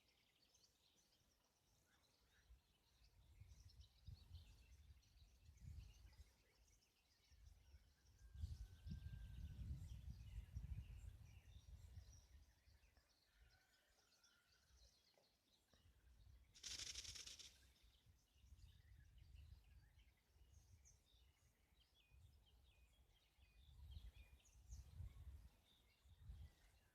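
Very quiet outdoor ambience with faint, scattered small-bird chirps. Intermittent low rumbles come and go, and a short hissing rustle sounds about seventeen seconds in.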